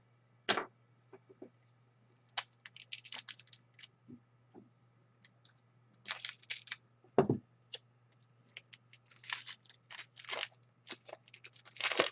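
Bursts of typing on a computer keyboard: irregular clusters of quick keystrokes separated by short pauses.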